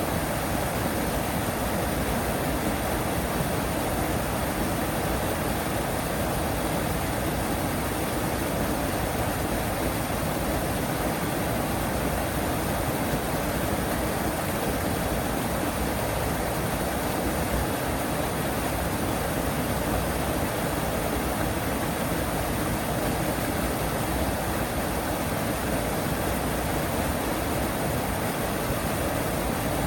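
Steady rush of running water in a duck pond, an even wash of sound with no calls or splashes standing out.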